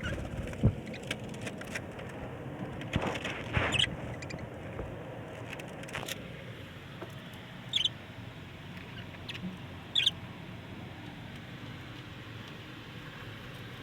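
A parrot giving two short, high squeaks, about two seconds apart, over a steady hiss. Scattered clicks and scratching are heard in the first few seconds.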